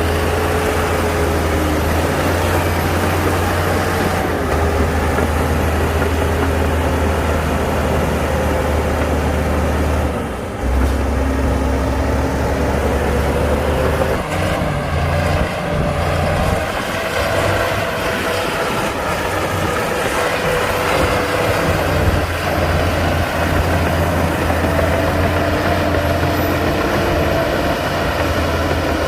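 Heavy diesel engine of a Komatsu D60-P crawler bulldozer working, its engine note rising and falling as the load changes.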